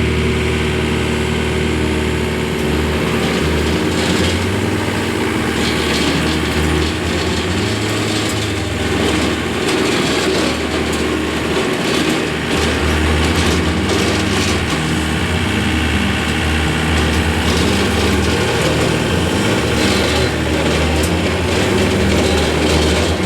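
A small vehicle engine running steadily, its pitch and level shifting now and then.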